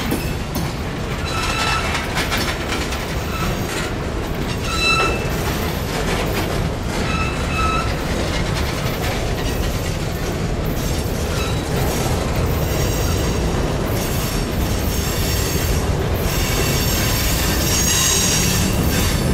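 Freight cars rolling past close by: a steady rumble of steel wheels on rail with clacks over the rail joints. Short high-pitched wheel squeals come several times in the first eight seconds, and a higher squeal sounds near the end.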